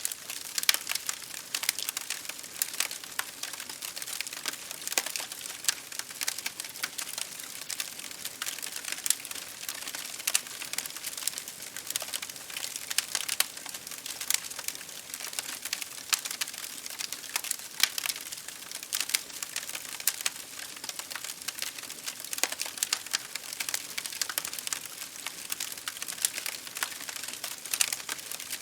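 Wood fire crackling and popping steadily, with many sharp irregular snaps over a soft hiss.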